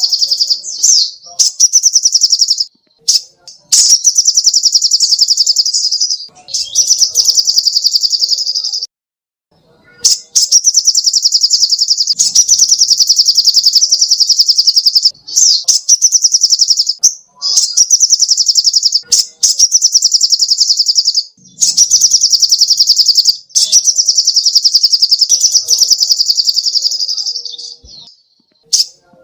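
Little spiderhunter (sogok ontong) singing: long, very fast trills of evenly repeated high notes, each phrase lasting a few seconds, with short breaks between phrases.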